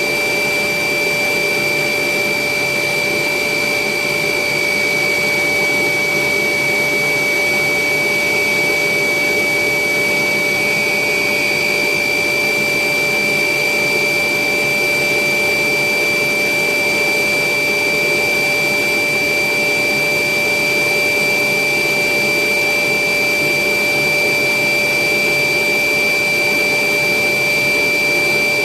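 Electric air blower running steadily with a constant high whine, inflating a giant balloon.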